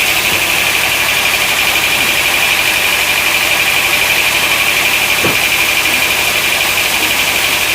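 Sawmill running: a loud, steady mechanical noise with a strong high whine held at one pitch.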